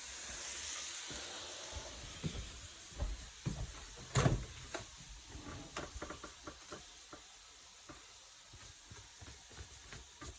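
Faint frying sizzle from the pan in the first second or so, then a run of knocks and clatters of things being handled in the kitchen, the loudest about four seconds in.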